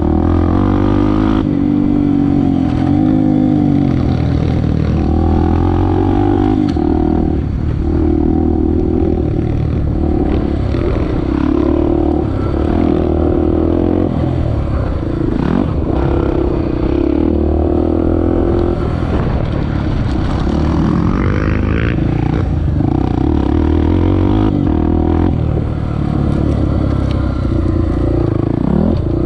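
Honda XR250 Tornado's single-cylinder four-stroke engine running hard under a rider, its pitch rising and dropping back over and over as the throttle is opened and closed through the gears.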